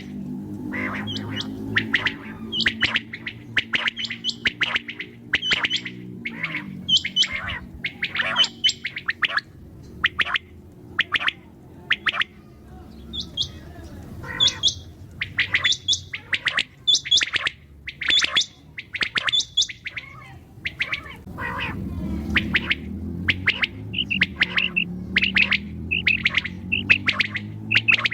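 Common quail, female calls, giving a long series of short, sharp notes about two a second, over a low steady hum.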